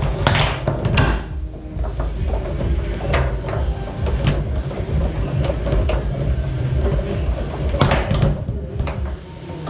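Foosball being played on a Tornado table: sharp clacks of the ball being struck by the men and hitting the walls, several strikes scattered through, the loudest about half a second and a second in and again near eight seconds. Music plays in the background.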